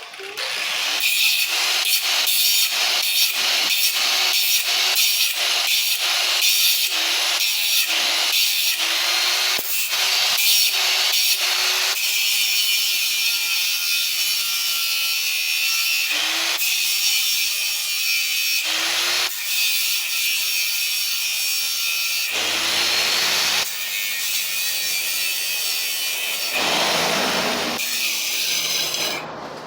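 Tool work on a Stihl 038 chainsaw to get a broken screw out: a harsh rasping sound, in regular strokes about twice a second for the first twelve seconds, then continuous with a few sudden changes.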